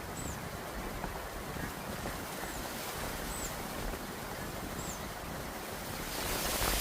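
Wind blowing with a steady rushing noise, with a bird giving short, high, down-curving call notes about every second or two. About six seconds in, the rushing grows louder.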